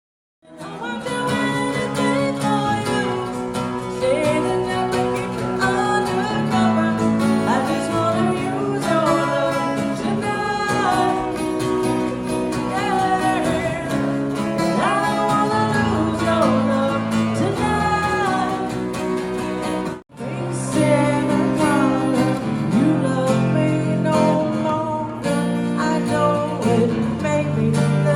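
A duo playing country-style acoustic music live: strummed guitar under a melody line that slides and bends in pitch. The sound cuts out for an instant about twenty seconds in.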